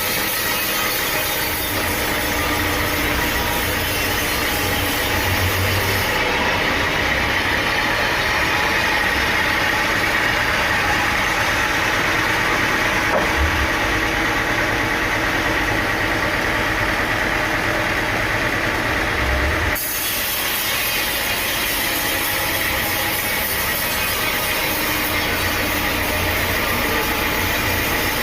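Sawmill machinery running steadily: an engine-driven saw with a constant high whine over the motor noise. The high end of the sound drops away abruptly about six seconds in and comes back near twenty seconds.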